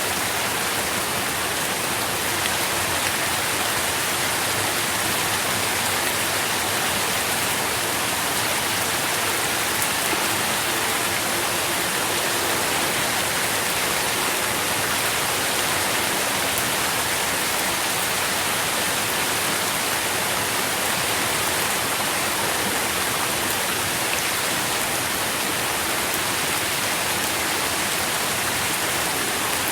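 Steady rain falling, with fine patter of drops on leaves and surfaces.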